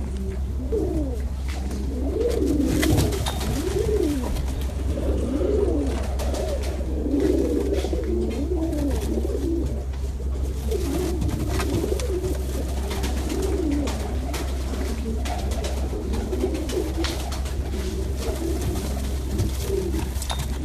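Several domestic pigeons cooing one over another, rising and falling coos without pause, over a steady low hum.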